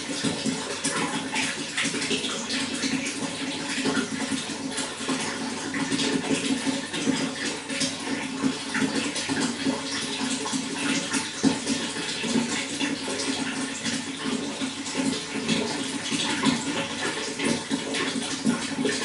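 Running water flowing steadily: an even rush with many small splashes throughout.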